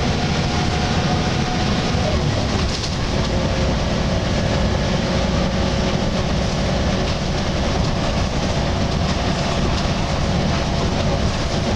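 Volvo B10BLE bus with a Wright Renown body under way: steady diesel engine and road rumble, with a groaning tone held over it.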